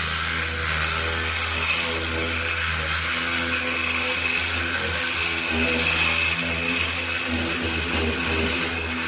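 A power tool running steadily and working on the car body with a continuous rasping sound.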